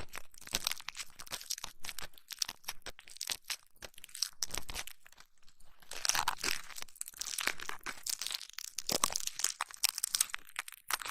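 Close-miked ASMR ear massage and ear cleaning: dense, crunchy crackling and crinkling rubbing on the microphone, with short pauses about five and eight seconds in.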